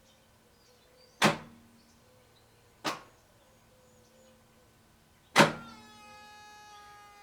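1989 Toyota Cressida's starter clicking sharply three times as the key is turned, the engine not turning over, with a faint steady electrical hum between the clicks and a brighter steady whine after the last one. The seller claims the engine is seized.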